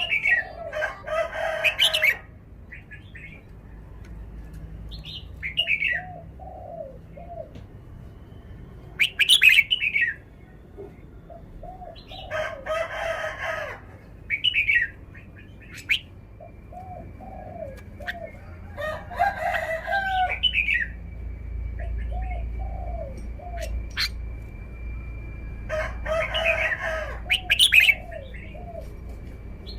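Caged red-whiskered bulbul singing loud, bright song phrases every few seconds, with quieter warbling notes between them. A thin, steady high tone runs through the second half.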